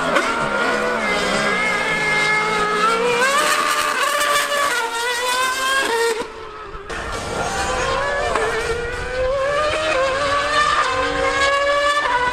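High-revving racing engine accelerating hard, its pitch climbing steadily. It drops away briefly about six seconds in, then climbs again.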